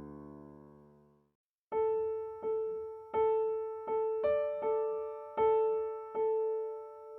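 Background piano music: a low chord dies away, then after a short gap a single note is struck over and over in an uneven rhythm, with a higher note joining about halfway through.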